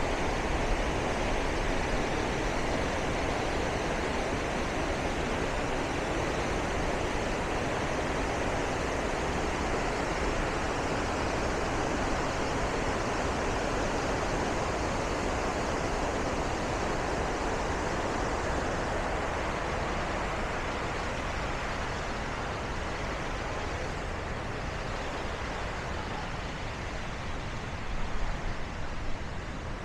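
Bow Falls on the Bow River: a steady rush of falling water, growing slightly fainter in the second half, with a few brief bumps near the end.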